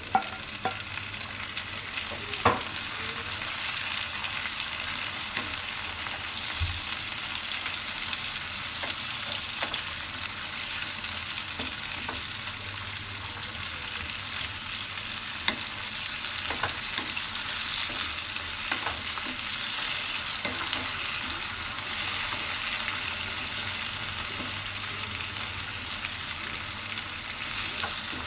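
Sliced tomatoes and onions sizzling in hot oil in a pan as they cook down, with a steady hiss. They are stirred, and the spoon clicks against the pan now and then, most sharply about two and a half seconds in.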